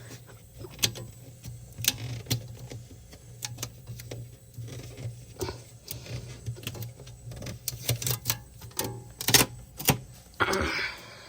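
Protective tape being peeled off the plastic interior of a compact fridge, with irregular crackling and sharp clicks and knocks as the plastic parts are handled. The loudest clicks come a little over nine seconds in, and there is a rustle near the end. A steady low hum runs underneath.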